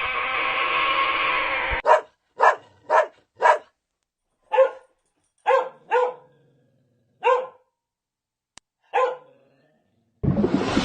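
A dog barking: about nine short, separate barks with silent gaps between them, following a long, steady animal call that ends about two seconds in. A burst of hissing noise starts near the end.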